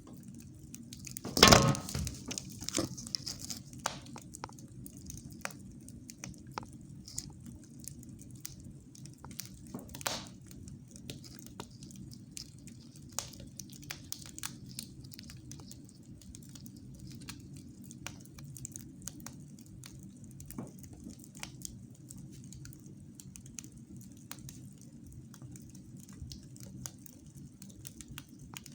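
Wood fire burning in a fireplace: irregular crackles and small pops over a low steady rumble, with a loud sharp pop about a second and a half in and another around ten seconds in.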